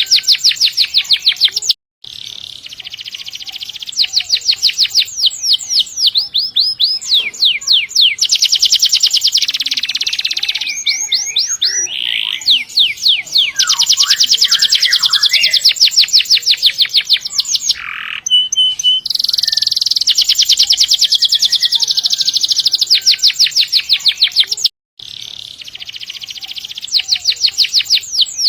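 Domestic canary singing long rolls: fast trills of repeated notes strung together almost without a break. The song stops dead twice, for a moment, about two seconds in and near the end.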